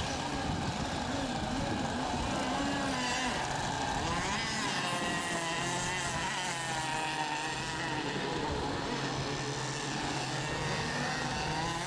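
Fuel-engined RC racing boats running on the water during the milling period before a heat starts: a steady engine drone whose pitches waver up and down as the boats are throttled.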